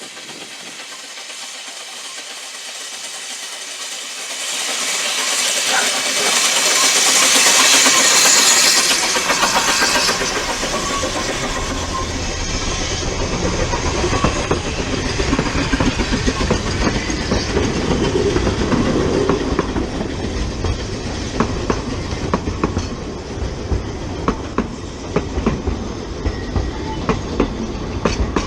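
Ffestiniog Railway narrow-gauge steam train passing. It builds to a loud hissing rush about eight seconds in, then gives way to a low rumble of carriages with wheels clicking over the rail joints.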